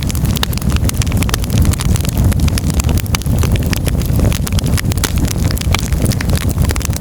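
Wood fire in a fireplace crackling: dense, irregular pops and snaps of burning firewood over a steady low rumble of flames.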